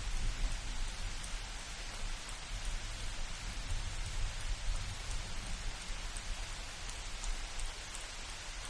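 Steady light rain falling on forest foliage, an even hiss with scattered drop ticks, over a low rumble.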